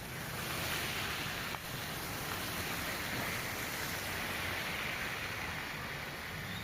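Heavy rain pouring down: a steady hiss of falling water that grows a little louder about half a second in.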